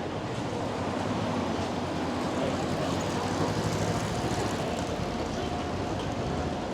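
A motor vehicle's engine running close by: a steady low hum that swells through the middle and eases near the end, with a faint steady whine joining about four seconds in.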